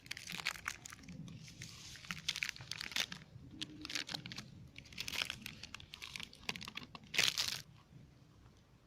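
Plastic packaging being handled: irregular crinkling and rustling, with a louder rustle about seven seconds in.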